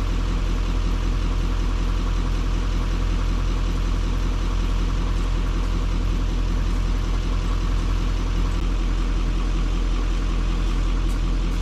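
Chevy Duramax diesel truck engine idling steadily, a low even hum.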